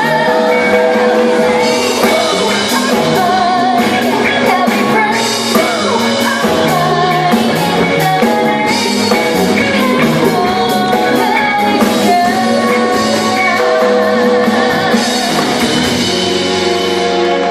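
Live band music with a singer: sung vocals over guitar and drums, held at a steady loudness.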